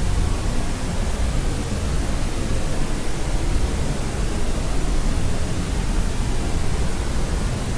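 Continuous white noise for sleep: a steady, even hiss that never changes, fuller in the low end than the high.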